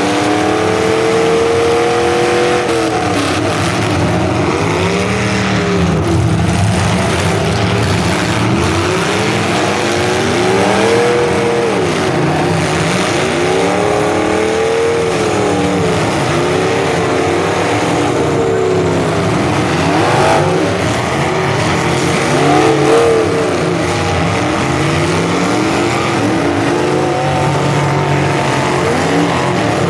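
Several full-size demolition derby cars' engines revving hard at once, their pitches rising and falling over one another as the cars accelerate and back off.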